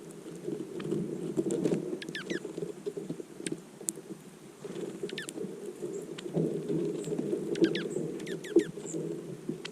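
Songbirds at a snowy feeder calling with quick chirps that slide downward, in short clusters about three times, over a steady low crackling patter.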